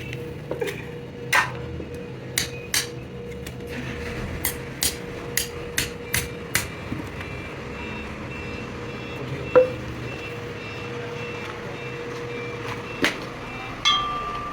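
A hammer striking metal in about a dozen sharp, irregular blows, most of them in the first half. A steady hum of running machinery sounds underneath.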